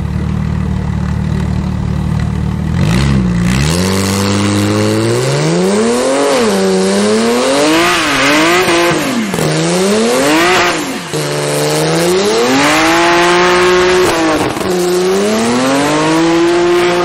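BMW 3 Series Touring doing a burnout. Its engine idles with a low, steady rumble for about three seconds, then is revved up and down over and over, each rev climbing and falling back sharply, over the hiss of the spinning rear tyres.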